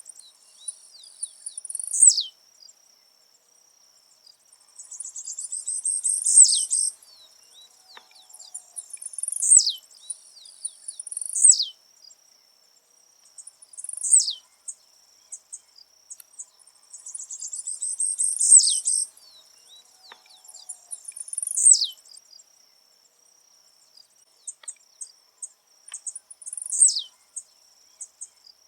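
Blue-black grassquit (tiziu) singing its short, buzzy high song over and over, each phrase ending in a sharp downward slur, about every two to three seconds, with a longer pause near the end.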